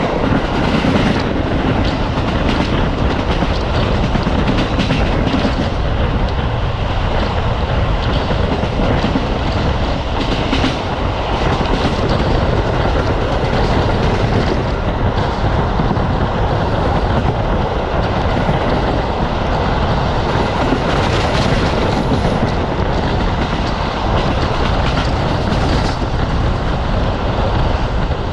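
Passenger train carriage running at speed, heard from on board: a steady loud rumble and rush, with the wheels clacking over rail joints several times.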